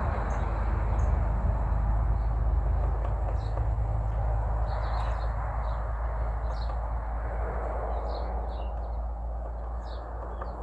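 Birds chirping now and then over a steady low rumbling background noise; no clear woodpecker drumming stands out.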